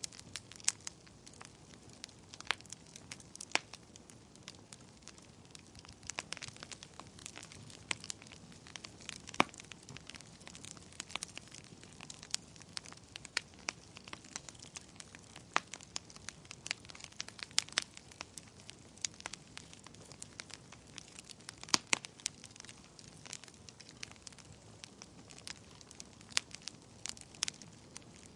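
Wood fire burning in a fireplace: a soft steady hiss with frequent sharp, irregular crackles and pops.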